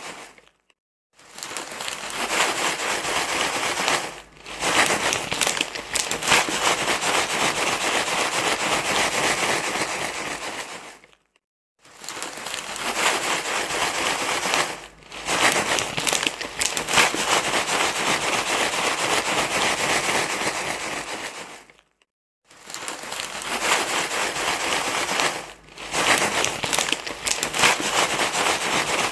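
Continuous crinkling, crackly rustling, a baby-soothing rustle sound. It plays in stretches of about ten seconds separated by short gaps, as one recording looped over and over.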